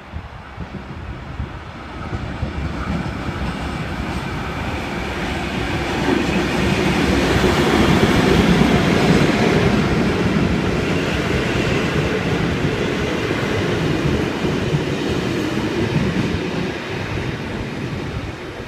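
Two 48 class diesel-electric locomotives hauling the AK cars pass through a station. The sound builds to its loudest about eight seconds in, with engine noise and wheels clacking on the rails, then eases off near the end.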